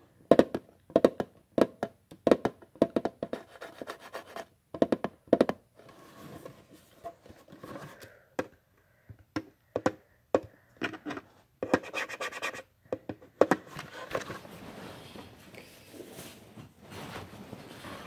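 Close-up ASMR scratching and tapping on a surface: many short, irregular strokes coming in clusters.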